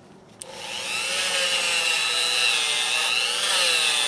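Electric polishing tool switched on with a click about half a second in, spinning up to speed within about half a second and then running steadily, its pitch sagging briefly a little after three seconds.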